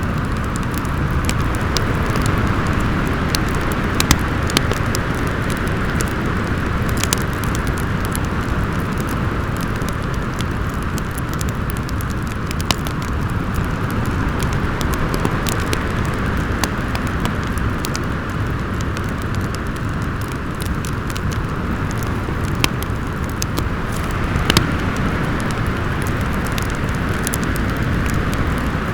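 Wind blowing steadily with a low rumble, over a wood fire crackling with scattered sharp pops, a few of them louder.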